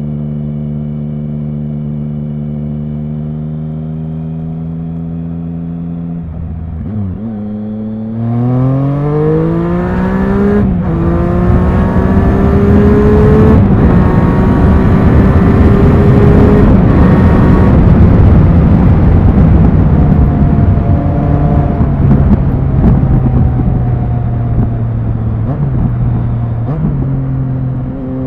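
Triumph Speed Triple 1050's inline three-cylinder engine, heard from on the bike. It runs steadily at low revs, then about seven seconds in it revs up hard, the pitch climbing and briefly breaking off and dropping back at each gear change. It then eases off to a lower, steadier note. Rushing wind noise builds with the speed.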